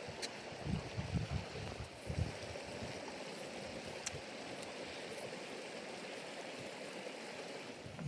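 Steady rushing water, with a few low, dull bumps in the first two seconds.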